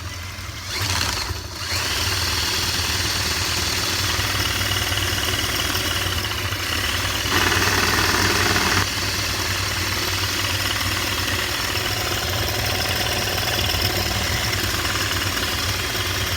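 A high-powered drill spinning a dead two-stroke chainsaw's chain through its clutch, the motor running steadily while the chain runs around the bar cutting cardboard. It picks up about two seconds in and gets louder and harsher for a second or so around the middle.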